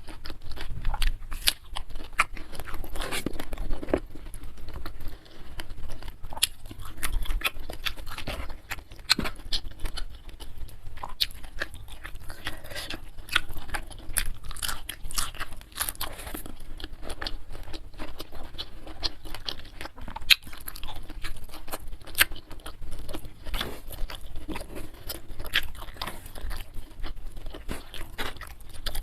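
Close-miked eating sounds: steady chewing with many irregular crisp crunches and bites of food.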